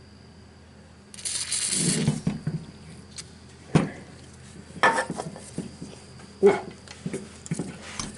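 A short burst of aerosol spray, a hiss lasting about a second, as WD-40 is squirted into a seized starter solenoid, followed by several sharp clinks and knocks as the stuck parts are worked.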